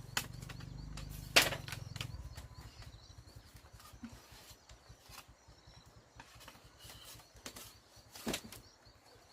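A few sharp knocks, the loudest about a second and a half in and another near the end, with fainter clicks and rustles between; a low hum dies away about two seconds in.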